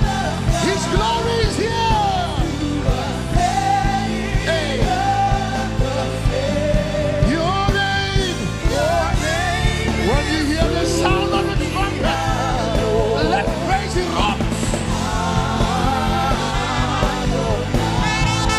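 Live gospel worship music: a full band with a steady beat under a solo voice singing long, sliding and wavering melodic lines.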